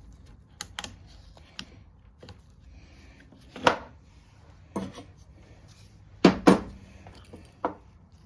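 Tools and small metal engine parts clicking and knocking during hands-on work on a lawn mower's Tecumseh engine: about eight irregular knocks, the loudest near the middle and a close pair toward the end.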